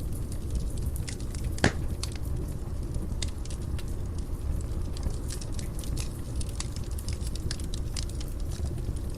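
Wood fire in a fireplace crackling over a low steady roar of flame, with many small snaps and one louder pop about a second and a half in.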